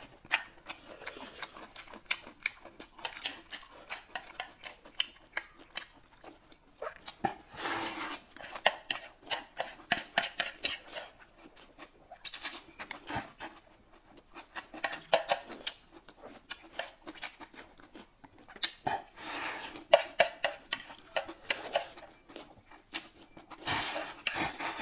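Close-miked eating sounds: noodles slurped in several hissing bursts about a second long, between many small clicks of chewing, lip smacks and chopsticks tapping plates.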